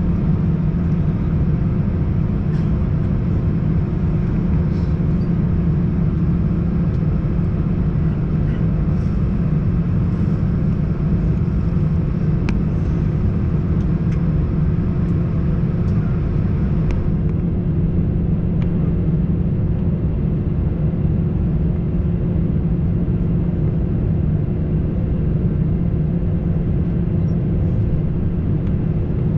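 Steady cabin drone of an Airbus A321-111 with CFM56 engines, heard from a window seat: a loud, even, deep hum with a fainter hiss above it. The hiss thins a little past halfway.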